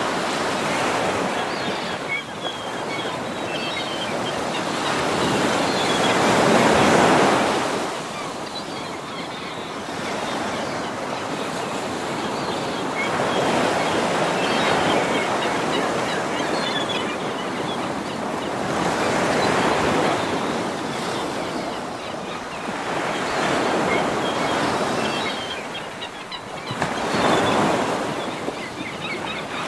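Sea waves breaking on a shore, the wash swelling and falling away in surges every five to seven seconds, the loudest about seven seconds in.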